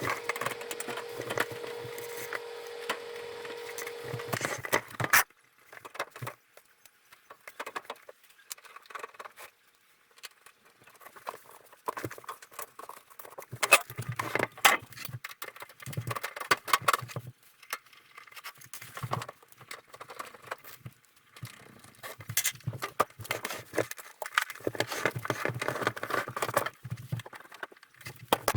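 A steady hum for about the first four seconds cuts off. Then come scattered clicks, clinks and short rattles of hard objects being handled, with quiet gaps between them.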